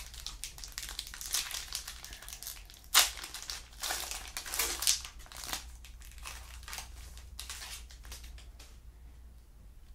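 Plastic trading card pack wrapper crinkling and crumpling in the hands as a pack is opened, in irregular rustles with a sharp crackle about three seconds in, fading out near the end.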